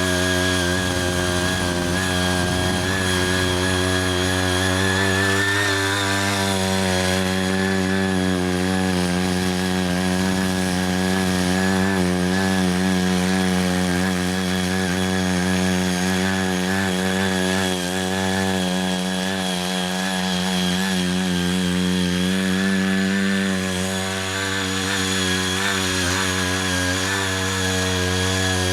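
Small engine of a Ching Yee CY80 walk-behind tiller running steadily while rotary tilling, its pitch wavering slightly as the load changes.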